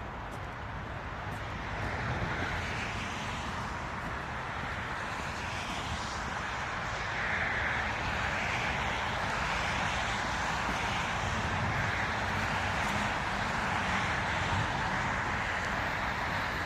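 Footsteps crunching in snow, about one step a second, over a steady low rumble of city traffic.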